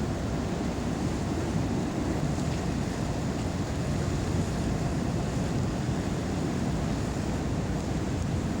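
Steady low rumble of wind and sea, with wind buffeting the microphone.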